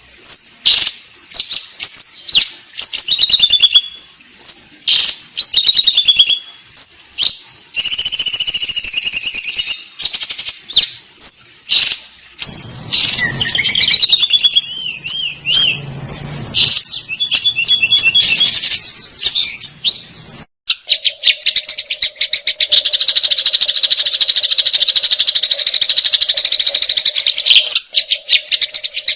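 Sparrows chirping and chattering in fast, agitated runs of sharp high notes and trills, the calls of sparrows fighting. About twenty seconds in the chirping cuts off and a steady, fast rattling buzz with a constant hum takes over.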